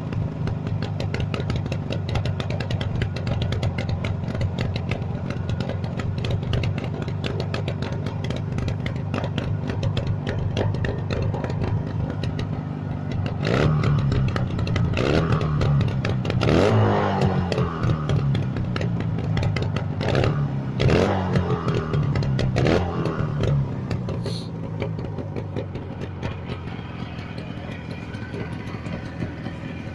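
Motorcycle engine running through a homemade 'flute' exhaust, idling steadily, then blipped up and back down about six times in quick succession through the middle before settling back to a steady run.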